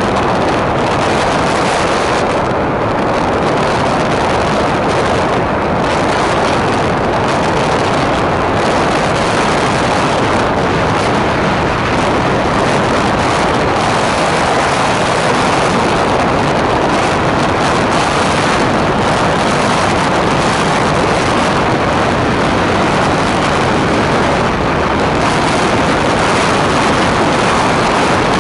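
Blizzard wind blowing hard, a steady loud rushing noise that swells and eases only slightly.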